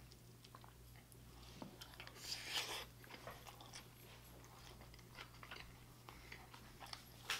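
Faint, wet mouth sounds of a person chewing a mouthful of beef and rice, with small clicks of the mouth and a brief louder hiss about two and a half seconds in.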